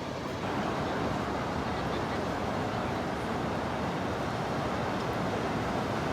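Steady rushing noise of ocean surf and wind, growing a little louder about half a second in.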